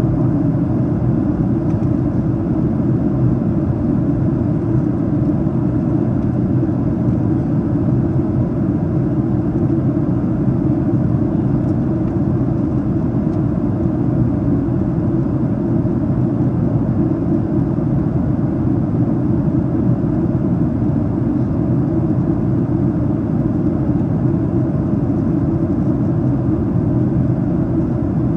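Steady low cabin roar inside a Boeing 737-800 in flight, the airflow and engine noise heard from a main-cabin seat during the descent. It does not change over the whole stretch.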